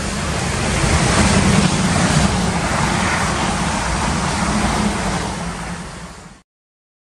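A Class 444 Siemens Desiro electric multiple unit passing at speed. Its wheel and air rush builds as it approaches and is loudest as it goes by, then fades and cuts off abruptly near the end.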